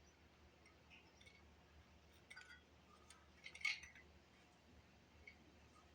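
Faint metallic clinks of hand tools and metal parts being handled, with one louder clink about three and a half seconds in, over near-silent room tone.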